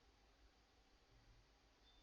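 Near silence: faint hiss and low hum of room tone.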